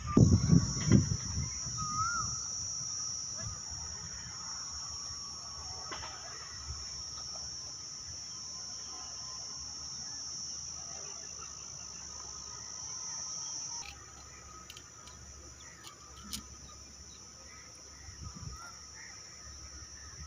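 Steady high-pitched insect drone that cuts off suddenly about two-thirds of the way through, with faint wavering bird calls. A few dull thumps in the first second are the loudest sounds.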